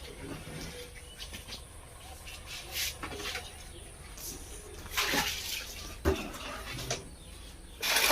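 Rain and running water, an uneven rushing noise with louder surges about five and eight seconds in and a short knock in between.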